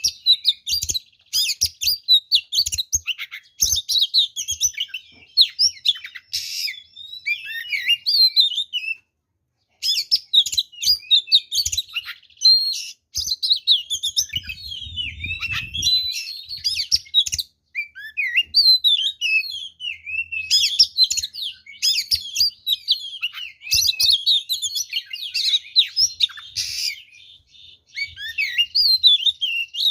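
Oriental magpie-robin (kacer) singing a fast, varied song of whistles, trills and harsh chattering notes packed with mimicked phrases, with a brief break about a third of the way in. It is a combative, territorial song meant to provoke rival males.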